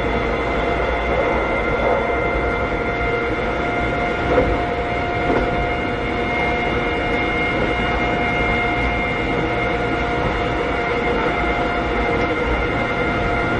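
Inside a Keikyu old 600 series (second generation) electric train car with Toyo Denki traction equipment, running at steady speed. A steady, even-pitched motor and gear whine sits over the low rumble of the wheels, and a few rail-joint knocks come in the first half.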